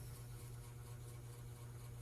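Faint room tone: a low steady hum with a light hiss.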